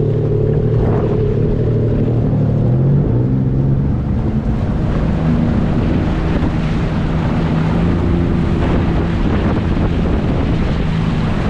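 Yamaha EX Deluxe personal watercraft's three-cylinder engine running steadily under way, its pitch shifting a little now and then, with water rushing past the hull and wind buffeting the microphone.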